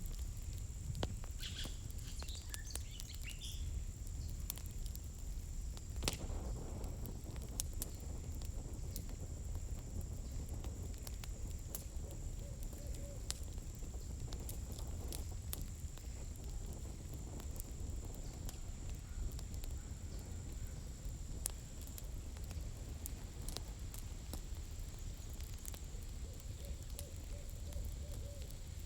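Campfire of burning firewood crackling: irregular sharp pops and snaps over a steady low rumble of the flames, with a faint steady high-pitched whine throughout.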